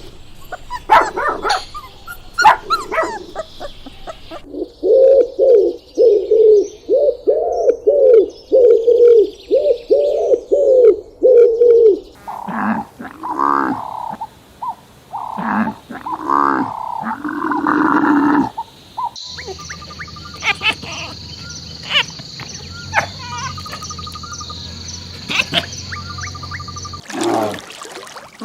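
Animal calls from several different animals in turn: sharp calls at first, then a rapid run of about a dozen evenly repeated calls, then irregular varied calls, and in the last third a steady hiss with scattered clicks.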